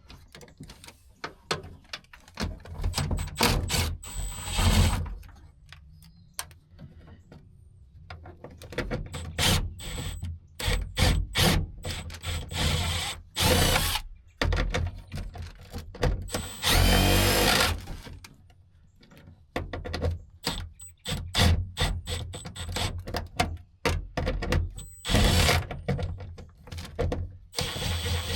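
A cordless power driver spinning out the tail-light fasteners in short bursts, the longest about a second. Short clicks and rattles of the tool and parts fall between the bursts.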